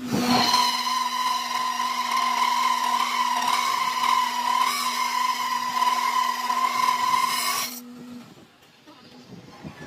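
A workshop machine runs with a steady high whine and a low hum underneath, starting just after the beginning and cutting off about eight seconds in.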